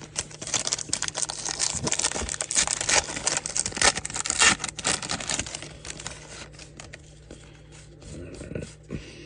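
Foil wrapper of a trading-card pack being torn open and crinkled: dense crackling for about five seconds, then quieter rustling as the cards come out.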